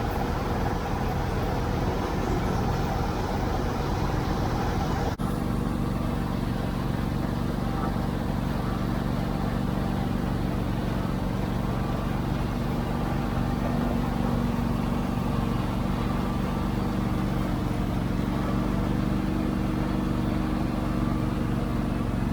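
Tractor engine running steadily under way, a sustained low drone with a steady pitch. About five seconds in there is a sudden break, after which the engine note sits slightly differently and holds steady.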